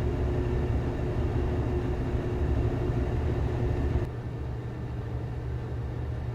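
Gas furnace running at full fire, with a steady low rumble from the burners and blower and a steady hum over it. About four seconds in, the sound drops a little quieter and the hum stops.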